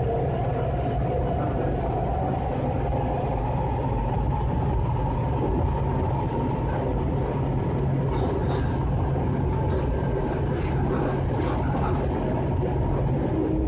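Passenger train running, heard from inside the car: a steady low hum over continuous wheel and track rumble.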